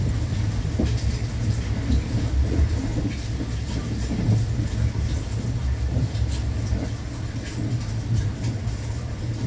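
Running noise inside the cabin of a JR West Thunderbird limited express electric train: a steady low rumble of wheels on rails with faint light ticks over it.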